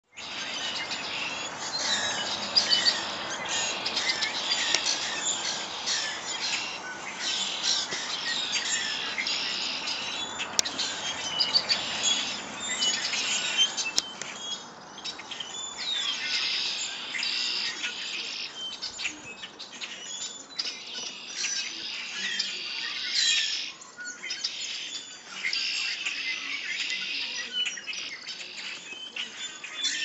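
A flock of songbirds chirping and calling over one another in a dense chorus of short, high chirps, with only brief lulls.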